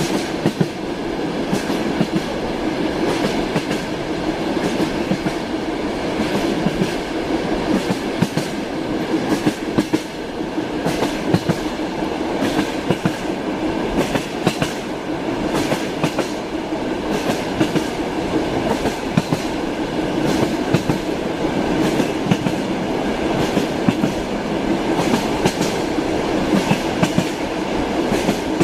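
Train wheels clacking over rail joints: a steady running rumble with many sharp knocks scattered through it.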